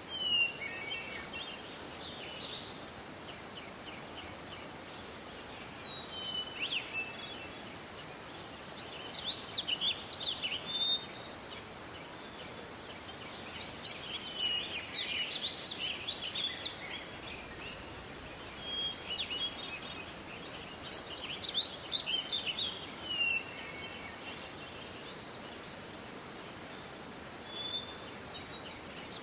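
Songbirds singing in short bursts of quick chirps and trills, a phrase every few seconds, over a steady background hiss.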